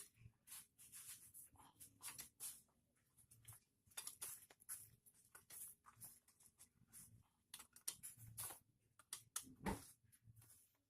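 Faint, irregular clicks and light metallic clinks of hand tools and motorcycle engine parts being handled during assembly, with one louder knock near the end.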